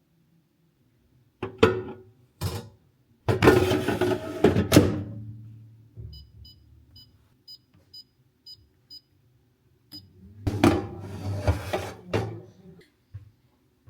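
Clatter and knocks of objects being handled, then a row of about seven short, high electronic beeps spaced evenly about half a second apart, like an appliance's keypad, then more clatter.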